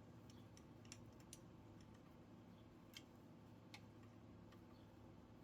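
Near silence with a few faint, scattered clicks of small metal parts or a tool being handled, over a low steady hum.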